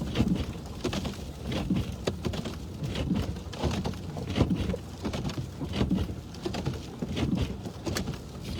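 Sleet and freezing rain ticking irregularly on a car's windshield and body, heard from inside the moving car over a steady low rumble of the car on the wet, snowy road.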